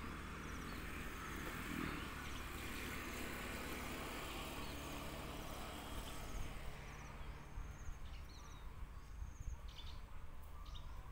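Outdoor ambience: small birds repeating a short high chirp about once a second, over a steady hiss that fades about six seconds in.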